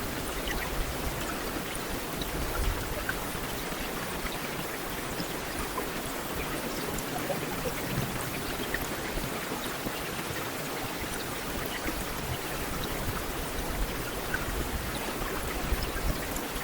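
Heavy rain falling steadily, an even hiss dotted with the small ticks of individual drops.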